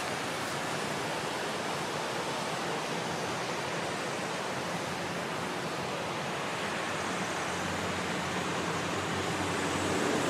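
Jet airliner engine noise: a steady, even rush that grows louder near the end.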